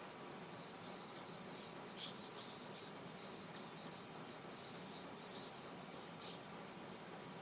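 Citrus burnishing oil being wiped onto a sanded Iroko platter, in a quick run of soft, irregular rubbing strokes across the wood.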